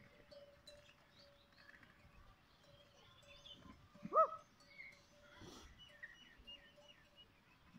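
Small birds chirping faintly over a steady thin hum, with one short, louder call that rises and falls about four seconds in.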